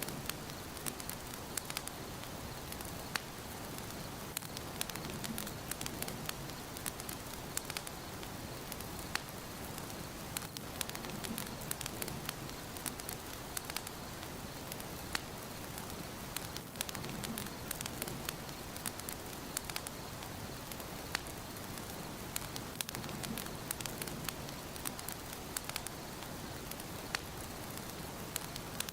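Wood fire crackling in a fireplace: a steady soft hiss with frequent small, sharp pops and snaps.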